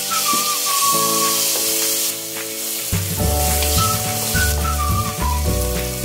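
Diced raw chicken sizzling in hot oil in a frying pan as it is stirred. Background music plays over it, with a high melody line, and a bass line comes in about halfway.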